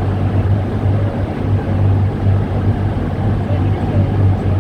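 Turbocharged Volvo B5244S five-cylinder engine running at a steady speed: a loud, even low drone with no rise or fall in revs.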